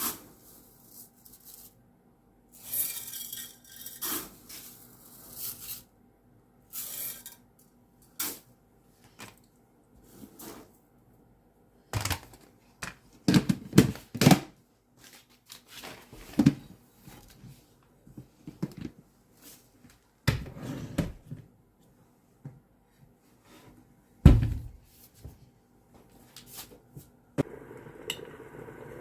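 Kitchen handling sounds: scattered knocks and clatters of dishes, utensils and cupboard doors with short rustles, then a steady hiss of something cooking starting near the end.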